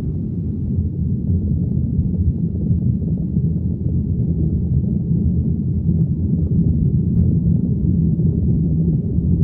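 Steady low rumble of an airplane heard from inside the cabin.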